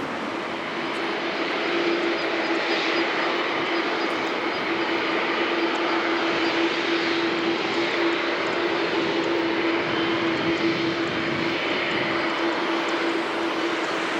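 Jet airliner engines running: a steady rushing noise with a steady humming tone in it, growing a little louder over the first couple of seconds.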